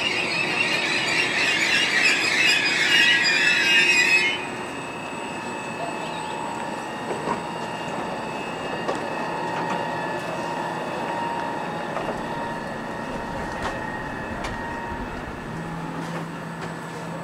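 Commuter train's wheels and brakes squealing loudly as it slows, cutting off suddenly about four seconds in as it comes to a stop. A quieter steady hum follows.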